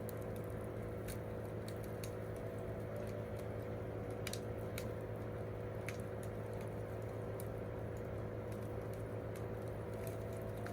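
Campfire crackling: burning wood giving off irregular sharp pops and snaps over a steady low background.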